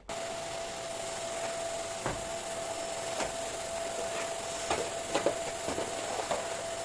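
Vacuum cleaner switched on and running steadily with a constant whine, the nozzle knocking lightly against things a few times.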